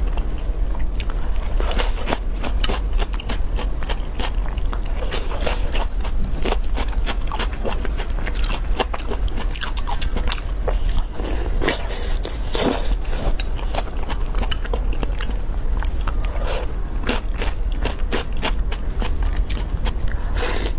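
Close-miked eating of soft braised pork belly: a steady run of wet chewing, biting and mouth clicks, with chopsticks now and then scraping the bowl, over a steady low hum.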